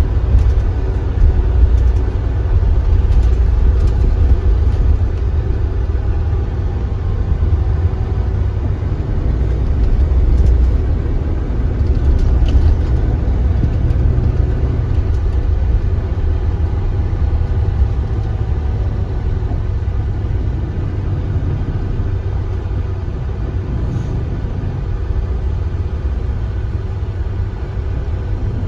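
Engine of a Kia Granbird Sunshine coach running steadily on the road, a deep continuous rumble.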